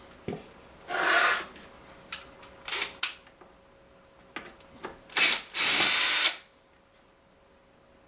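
Cordless screw gun driving a screw down in short bursts: four brief runs, the last and longest about two-thirds of a second, with light clicks between them.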